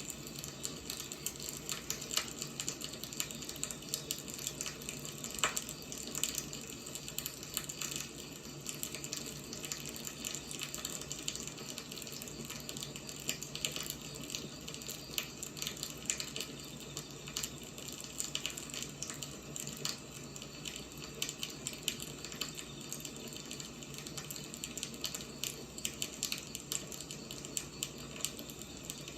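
Firewood burning: a steady hiss with frequent small crackles and occasional louder pops of the burning wood.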